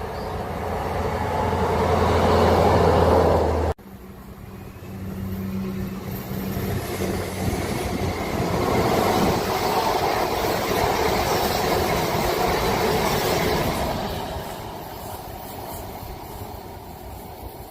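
A train passing close by, its rumble and steady engine tone cut off suddenly a few seconds in; then another train approaches and passes, loudest in the middle and fading away near the end.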